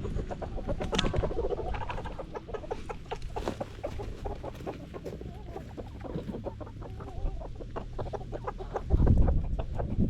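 Domestic hens clucking, with many short clucks and small rising and falling calls. About nine seconds in there is a brief louder low rumble.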